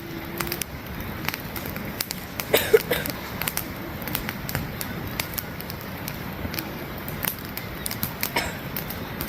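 Firewood burning in a campfire, crackling and popping: irregular sharp snaps over a steady low rush of the flames, with a louder flurry of pops about two and a half seconds in.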